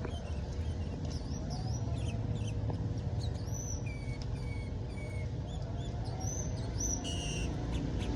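Sooty-headed bulbul (kutilang) singing a run of short whistled and chirping notes, high-pitched and bending up and down, over a low steady background hum.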